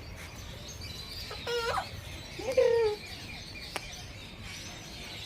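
Caged parrots calling: two short, harsh pitched squawks about a second apart, with a single sharp click a little later.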